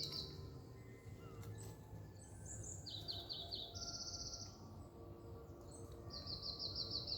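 Forest songbirds singing: short, high trills of rapidly repeated notes, one at the very start and others about three, four and six seconds in, over a steady low background hum.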